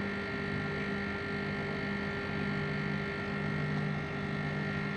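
Split air conditioner's outdoor unit running with a steady hum and a few fixed tones, its service valves closed after a pump-down so the refrigerant is held in the outdoor unit.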